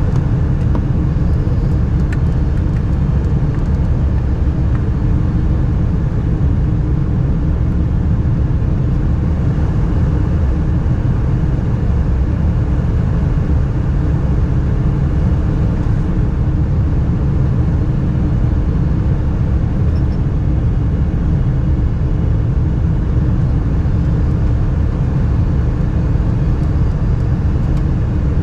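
Steady cabin noise aboard a Boeing 747-400 airliner: an even, deep rumble of engines and airflow that holds unchanged throughout.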